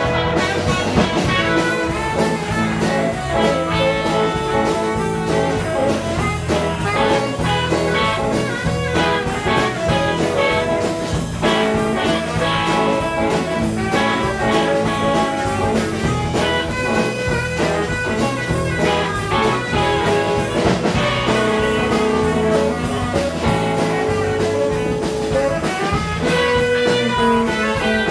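Live blues band playing an instrumental stretch: saxophone and electric guitars over drum kit and bass.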